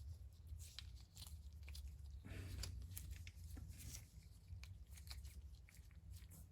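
Faint handling sounds of brake parts: scattered small clicks and brief rustling as a rubber-coated shim is fitted to the back plate of a new brake pad, over a steady low hum.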